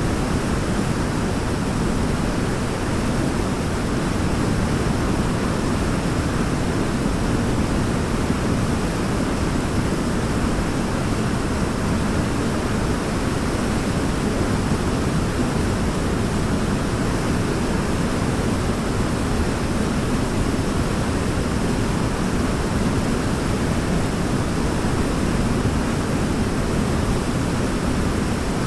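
Waterfall: a steady, unbroken rush of falling water, deepest and strongest in the low range.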